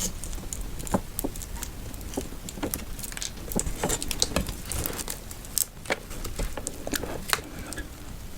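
Close-miked handling sounds: a run of irregular sharp clicks, taps and crinkles, densest in the middle, with a few louder snaps near the end.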